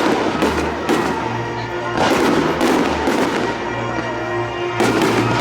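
Fireworks shells bursting with sharp, echoing booms several times over music playing.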